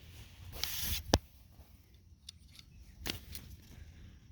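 A brief rustle followed by a few sharp clicks, the loudest just after a second in and another about three seconds in.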